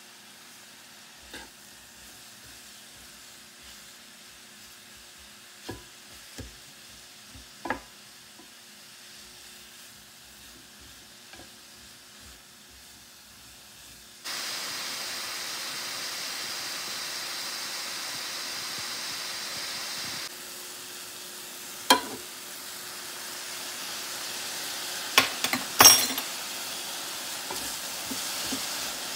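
Food frying in a pan, most likely mushrooms cooking in butter. The first half is quiet with a few light knocks. About halfway through a steady sizzle starts suddenly, then eases a little, with utensils clanking against the pan a few times near the end.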